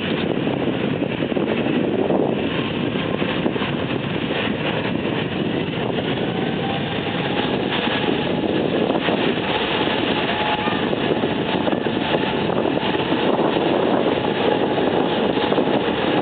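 Boeing 777-200's Pratt & Whitney turbofans at takeoff thrust: a steady, heavy jet roar, with a faint whine over it from about halfway through.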